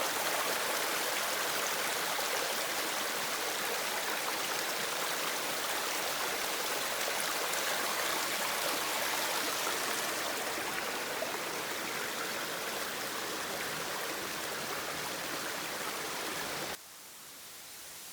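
Waterfall water rushing in a steady, even wash. About a second before the end it cuts off abruptly, leaving a much quieter hiss.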